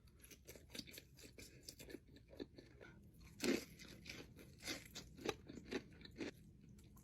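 Close-miked chewing of crispy fried chicken wings: a run of sharp, irregular crunches, the loudest bite about three and a half seconds in.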